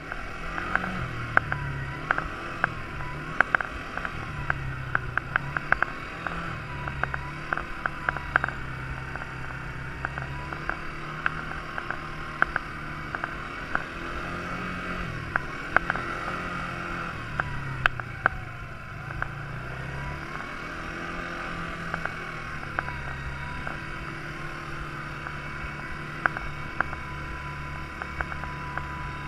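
Quad bike engine running, its pitch rising and falling repeatedly as the throttle changes, with frequent sharp clicks and knocks throughout.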